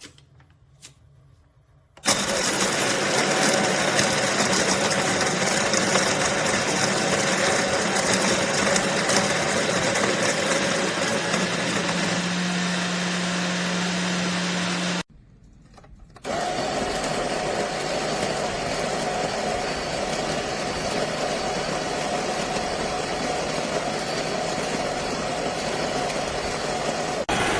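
Electric coffee grinder's motor grinding beans, with a steady hum. It runs for about thirteen seconds, stops, and starts again a second later for a second run.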